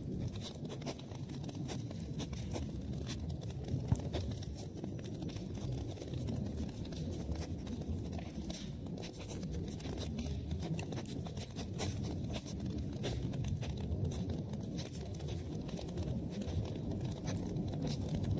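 Wood fire crackling in a fireplace: many small pops and snaps over a steady low rumble of burning, with one sharper pop about four seconds in.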